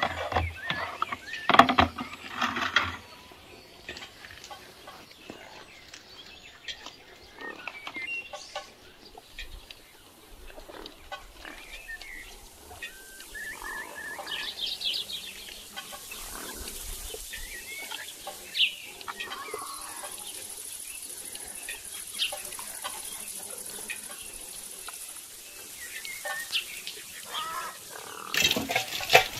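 Chickens clucking now and then while soil and a plastic flower planter are handled, with rustles and knocks loudest in the first few seconds. Near the end, water from a garden hose starts splashing.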